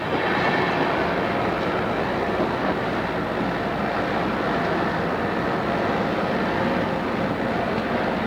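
Odakyu 2600 series electric train running, heard from inside the car: a steady rumble of wheels and running gear. It has the dull top of a cassette-tape recording.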